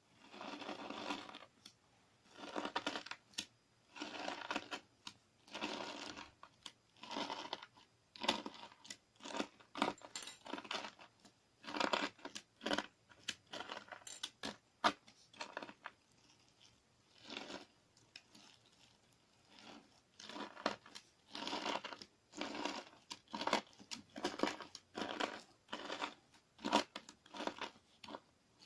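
Clear slime mixed with crunchy sand being scooped and pressed with a wooden spoon: repeated bursts of gritty crackling and sticky clicking, one every second or two.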